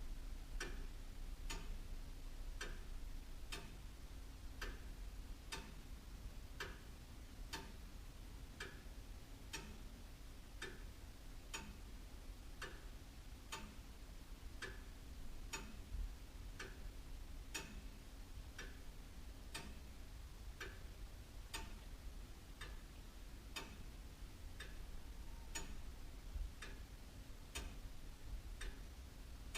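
Antique William Holliwell (Liverpool) clock ticking steadily, one even tick roughly every two-thirds of a second.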